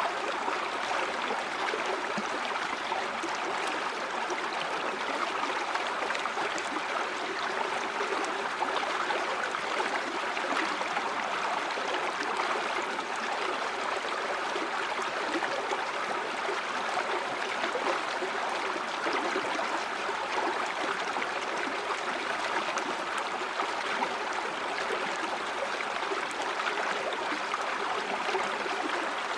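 River water flowing steadily over rocks, a continuous even rushing.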